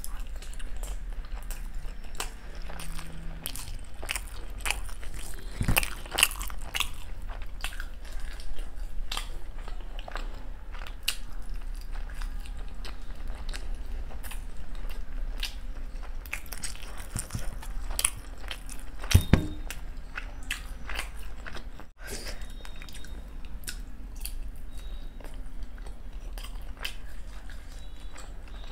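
Dahi golgappa being eaten: crisp puri shells crunching and being chewed, with wet mouth clicks throughout. Louder crunches come about six seconds in and again about nineteen seconds in.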